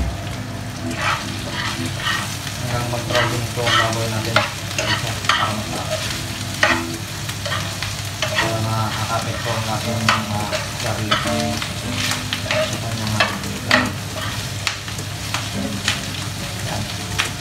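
Pork pieces and garlic sizzling in a frying pan while a metal spoon stirs them, with many short scraping clicks of the spoon against the pan.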